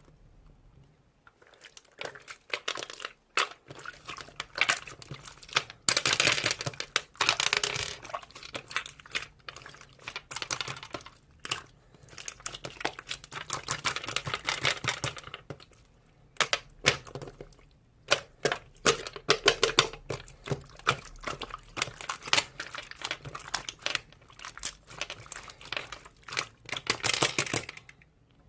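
Slime being played with by hand: squished, pressed and stretched, giving a dense run of sharp clicks, pops and crackling, with longer crinkly stretches a few times.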